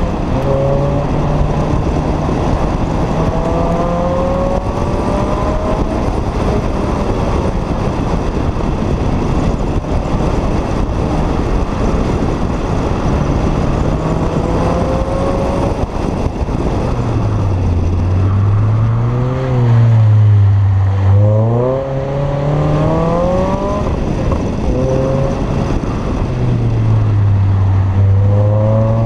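Renault Clio III RS's 2.0-litre four-cylinder engine through a K-tec KTR aftermarket exhaust, driven hard: the revs climb and drop with each gear change, over steady wind and road noise. About two-thirds through the revs fall and climb several times in quick succession.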